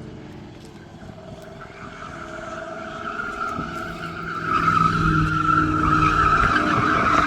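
A car being driven hard on a track, engine running with tyres squealing, growing louder about halfway through.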